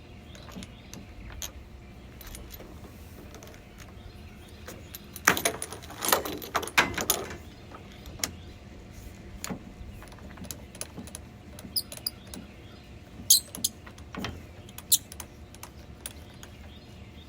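Pressure washer hose and its threaded fittings being handled and screwed together: scattered clicks and rattles of plastic and metal, with a burst of louder rattling about five to seven seconds in and a few sharp clicks later.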